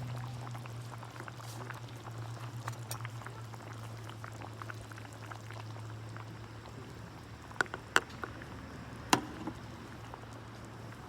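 Liquid bubbling at the boil, with light crackling and a steady low hum underneath. Three sharp clicks near the end.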